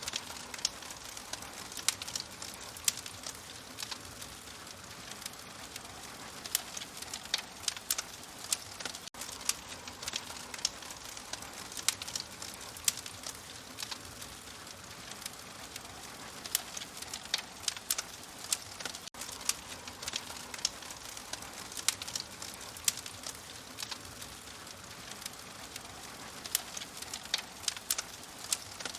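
Fire crackling: a steady soft hiss with frequent, irregular sharp pops and snaps.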